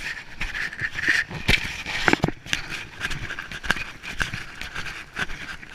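Heavy rain falling with a steady hiss, over many irregular close taps and knocks of raindrops striking a chest-mounted GoPro.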